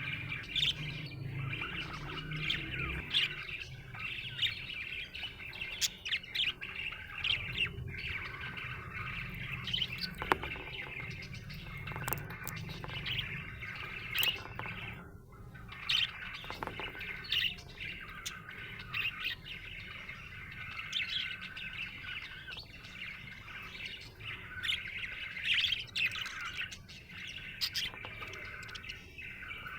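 Budgerigars chirping and warbling continuously, with many short sharp chirps and occasional squawks.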